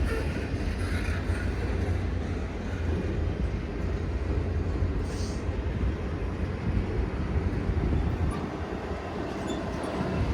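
Freight train rolling past, its cars making a steady low rumble on the rails.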